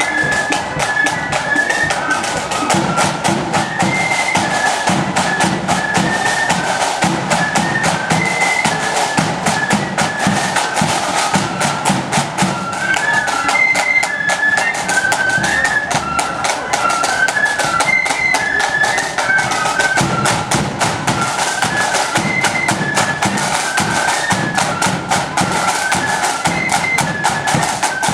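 Marching flute band playing a march: massed flutes carry a high melody over a steady beat of snare and bass drums.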